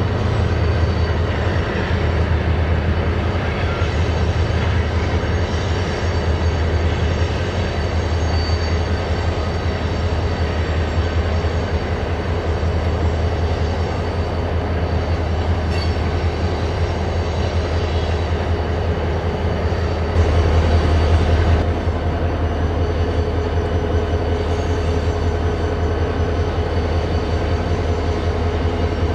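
Heavy diesel freight train rolling past at low speed: BNSF locomotives' engines give a steady low drone while loaded covered hopper cars rumble along the rails. A brief louder stretch comes about twenty seconds in.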